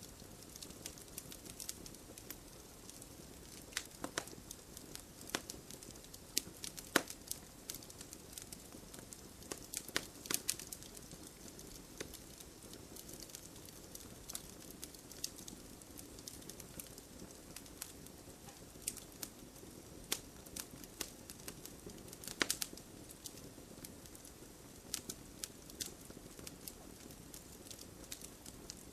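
Wood fire crackling: steady low hiss with sharp, irregular pops and snaps, a few louder ones scattered through.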